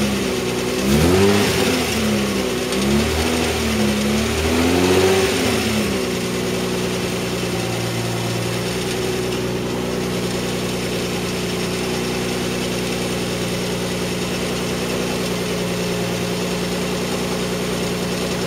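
The Mazda MX-3's 1.8-litre V6 is blipped up and back down about three times, then settles to a steady idle for the rest of the time.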